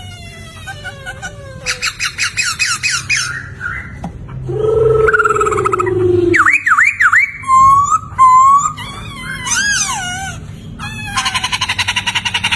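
Poksay (laughingthrush) singing a varied, loud song of clear whistled glides rising and falling, mixed with quick chattering phrases, and ending in a fast rattling trill of rapidly repeated notes.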